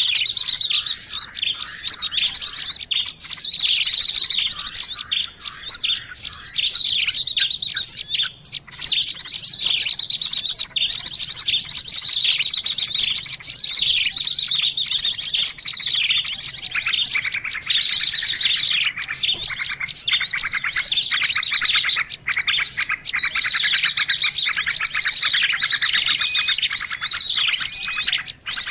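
Small songbirds chirping and trilling in a dense, continuous chorus of high, rapid notes: a bird-lure call recording meant to draw small birds in.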